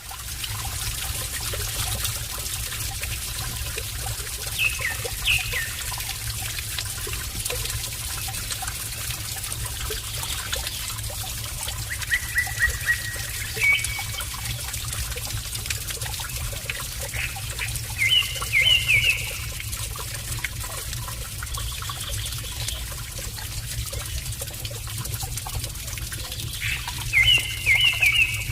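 Steady trickle of running water with birds chirping in short bursts, a few times over the stretch.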